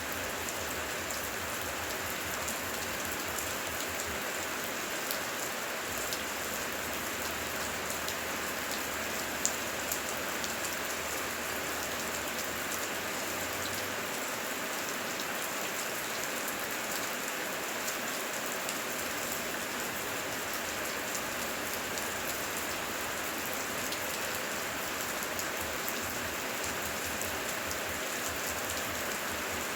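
Heavy rain falling steadily, a dense hiss of rain with many individual drops ticking on surfaces and a couple of louder drop hits about a third of the way in.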